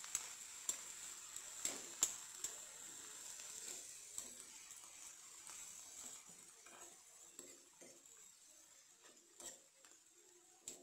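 Mint leaves, green chillies and onion sizzling in oil in a frying pan while a metal spatula stirs them, with scrapes and sharp clicks of the spatula against the pan. The sizzle dies down over the second half.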